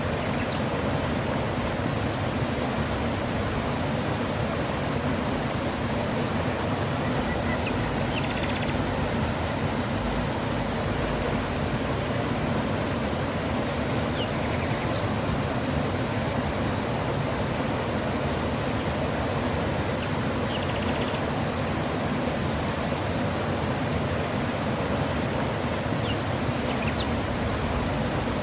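Mountain river flowing: a steady rush of water. A faint high chirp repeats evenly, about two to three times a second, and pauses for a few seconds midway.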